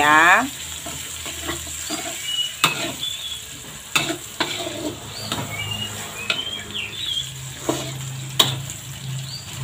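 Sliced shallots, garlic and chilies sizzling in hot oil in a wok, stirred with a metal spatula that scrapes the pan and clacks against it a few times.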